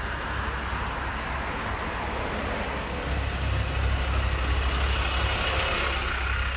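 Road traffic with a heavy vehicle's engine running as a low rumble, which grows louder about three seconds in.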